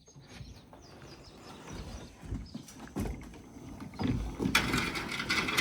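Knocks and scraping as an old, non-running motorcycle is wheeled and manhandled out of a trailer: scattered low thumps grow louder, then a busy scraping, rolling noise begins about four and a half seconds in.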